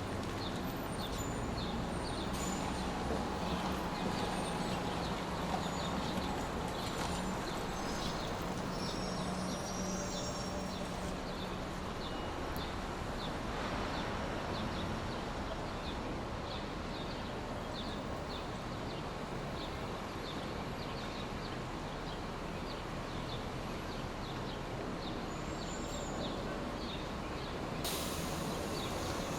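Steady rushing noise from a white or brown noise track, even and unbroken. Faint ticking repeats about twice a second, and a low hum sits under the noise in the first third.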